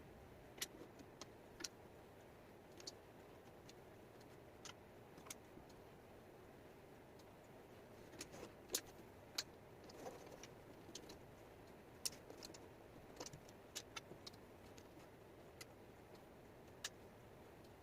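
Small wooden jigsaw puzzle pieces clicking and tapping against each other and the tabletop as they are handled. The clicks are sharp, irregular and sparse over a faint steady hiss, busier in the middle.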